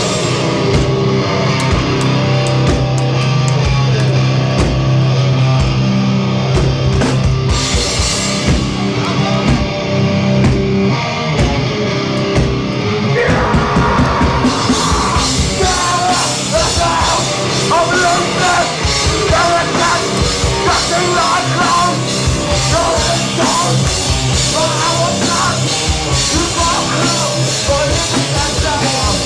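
Hardcore band playing live and loud: distorted guitars over bass and drums. About halfway through the full band with crashing cymbals comes in, and shouted vocals run over it in the second half.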